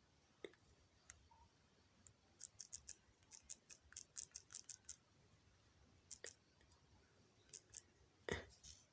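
Faint, quick clicks of fingers tapping a phone touchscreen, coming in irregular clusters as when typing.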